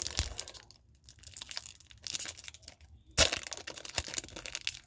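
Foil Pokémon card booster pack being crinkled and torn open, an irregular papery crackle with one louder sharp crackle about three seconds in.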